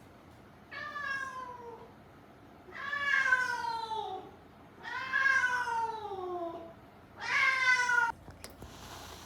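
Domestic cat meowing four times, each a drawn-out call of about a second that falls in pitch, followed by a brief knock near the end.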